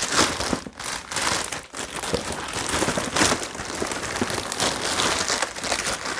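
Plastic packaging crinkling and rustling in dense, irregular crackles as the robot vacuum-mop is unwrapped.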